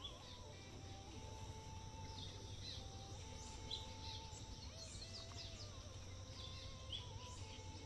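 Faint outdoor ambience: scattered short, high bird chirps over a steady low rumble, with a thin held tone that shifts in pitch every second or so.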